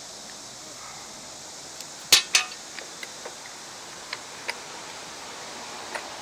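Metal tools and small engine parts clinking while being handled during disassembly: two sharp clinks about two seconds in, then several lighter clicks, over a steady hiss.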